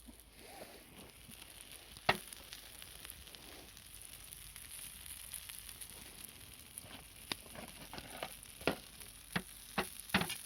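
Food sizzling in a frying pan: a steady high hiss, broken by sharp clicks and knocks, the loudest about two seconds in and a cluster near the end.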